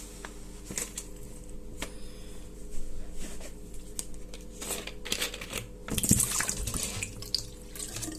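Water being poured out of a cut plastic bottle into a sink, splashing in short spurts with a longer pour about six seconds in, amid light clicks and knocks of the plastic being handled.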